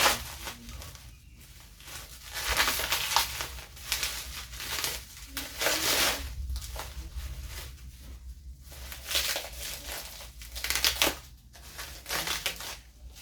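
Packaging being unwrapped and crumpled by hand: uneven spells of crinkling with short pauses between them.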